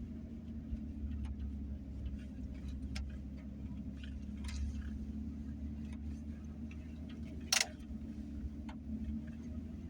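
Ford F-150 pickup truck driving, a steady low engine and road rumble, with scattered light ticks and one sharp knock about seven and a half seconds in.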